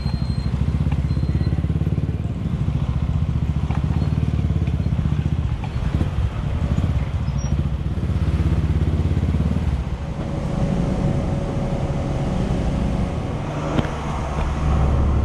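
Motorcycle engine running at low revs, a steady low rumble that changes character about ten seconds in.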